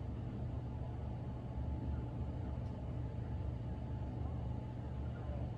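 Steady low rumble of a motor vehicle engine, with no change in level.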